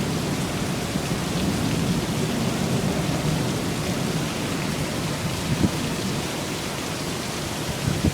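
Heavy rain pouring steadily, with a low thunder rumble fading out over the first few seconds. A couple of brief knocks come later.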